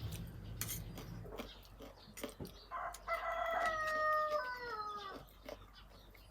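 A rooster crowing once: one long call of about two and a half seconds that holds its pitch and then falls away at the end, with scattered soft clicks around it.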